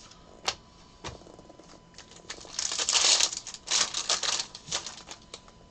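Trading cards being handled on a table: a couple of sharp clicks, then a quick run of rapid clicking and rustling as cards are flipped through and set down.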